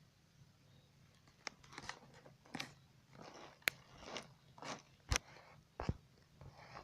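A baby bird eating dough: a string of sharp clicks and short crunchy snaps of its bill, about a dozen over four or five seconds.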